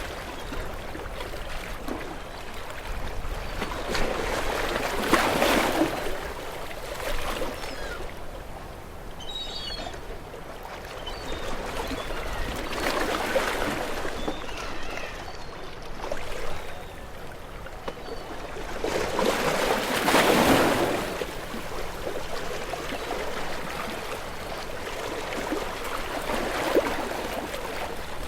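Sea waves washing in against shore rocks, surging about every seven or eight seconds, four times in all, with the third surge the loudest; the water churns between surges.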